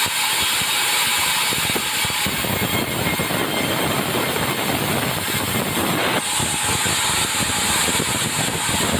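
Engine-driven sawmill running steadily, its saw cutting through timber. The sound shifts about six seconds in, getting hissier and thinner in the low end.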